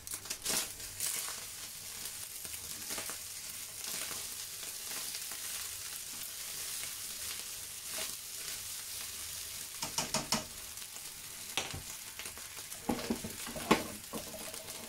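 Food sizzling steadily in a hot frying pan, with a few sharp knocks and scrapes of a utensil stirring it, most of them about ten seconds in and near the end.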